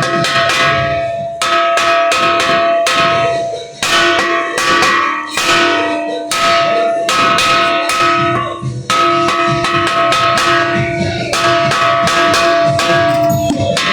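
Several bells struck repeatedly in quick, uneven strikes, their different pitches ringing on together and overlapping.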